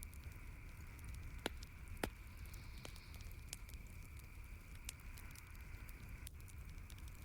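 Campfire crackling, with scattered sharp pops, the loudest about a second and a half and two seconds in, over a steady soft hiss.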